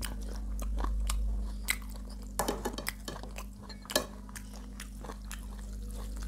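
Close-up chewing and biting sounds of a person eating: a string of short wet clicks and crunches, with a cluster about two and a half seconds in and a sharp one about four seconds in, over a steady low hum.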